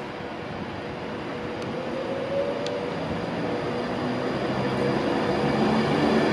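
Class 390 Pendolino electric train approaching along the platform, growing steadily louder as it nears and begins to pass. Its rumble carries a hum of several steady tones that strengthens near the end.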